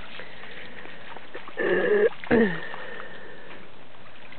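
Two short pitched vocal sounds about a second and a half in, the second sliding down in pitch, over a steady background hiss.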